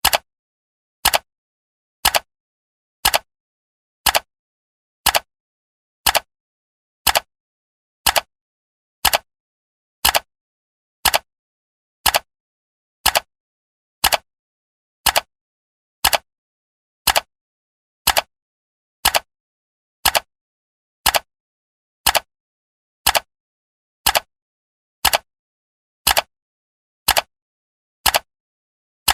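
Countdown timer's clock-tick sound effect: sharp ticks, one each second, with silence between them.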